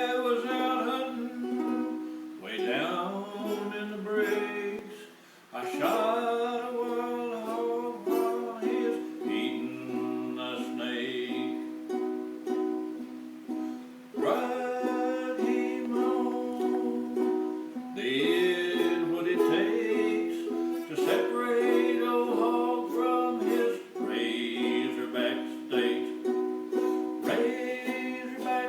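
A man singing a song with ukulele accompaniment, in sung phrases over steady plucked chords.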